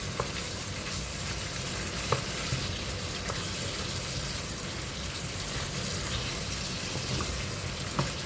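Chicken and zucchini sizzling steadily as they fry in oil in a pan, with a few light clicks of a spoon against the pan as it is stirred.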